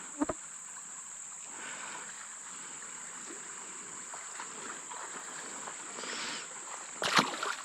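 A steady, high-pitched insect drone over a faint wash of creek water, with a brief click near the start and a short, louder sharp noise about seven seconds in.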